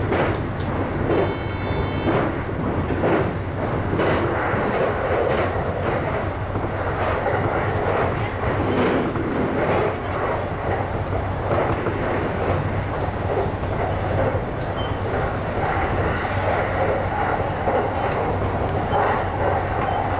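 E235-series electric train running along the track, heard from inside the front car: steady running noise with wheels clicking irregularly over rail joints. A short high beep sounds about a second in.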